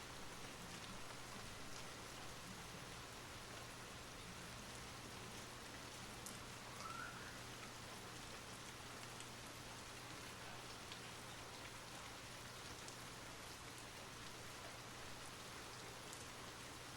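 Soft, steady rain falling: an even hiss with scattered faint drop taps. A brief faint rising-and-falling tone sounds about seven seconds in.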